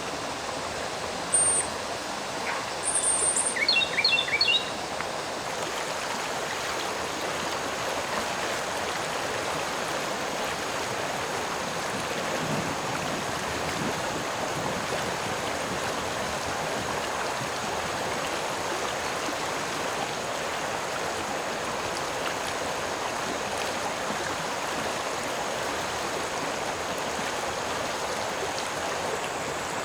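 A stream running with a steady rushing hiss. A bird gives a few short, high chirps in the first few seconds.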